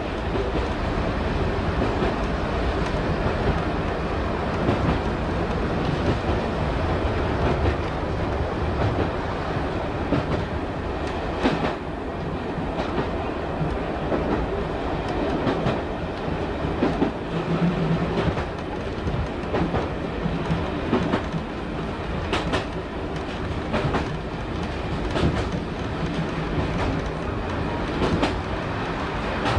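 Diesel multiple unit heard from inside its driving cab: steady engine and running noise, with the wheels clicking over rail joints every few seconds.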